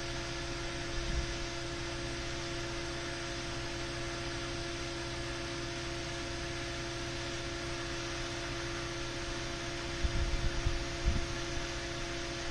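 Steady electrical hum with an even hiss beneath it, and a few low thumps about ten seconds in.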